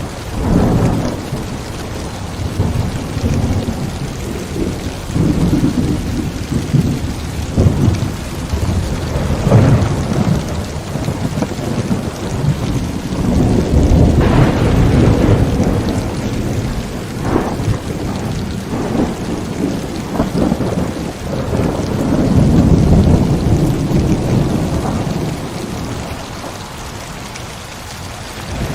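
Heavy rain falling steadily with rolling thunder, the rumbles swelling and fading several times.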